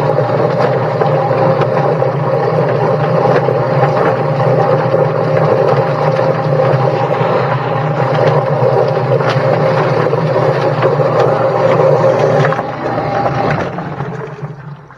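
Motorized chicken plucker running steadily with a bird inside, the motor hum under a constant rattle of clicks; it is switched off about twelve seconds in and spins down.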